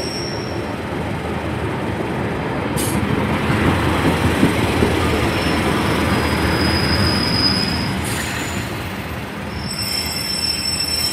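Class 142 Pacer diesel multiple unit pulling into the station: a steady rumble of wheels and engine that swells a few seconds in and then eases off, with a thin high wheel squeal on the rails at times and a single sharp click about three seconds in.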